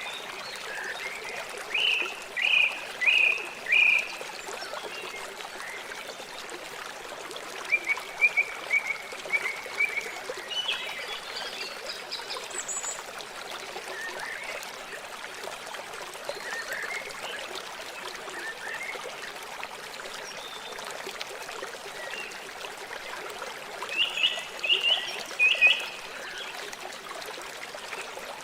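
River water flowing in a steady rush. A bird calls over it in short runs of three or four quick notes: about two seconds in, again near eight seconds, and near the end, with scattered single chirps between.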